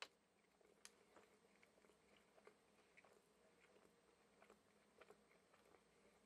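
Faint chewing of a mouthful of chicken sandwich with a sesame-seed bun: soft, irregular mouth clicks, with a sharper click at the very start.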